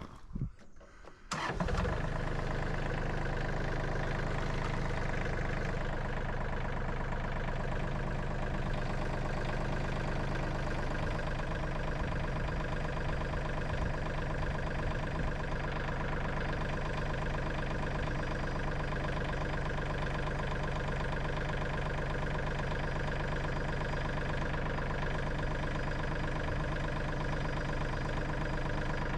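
An engine starts about a second in and then runs at a steady speed.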